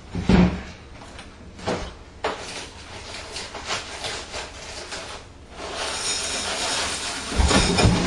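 Handling noises: scattered knocks and rubbing, a stretch of hissy rustling a little over halfway in, then heavier thumps near the end.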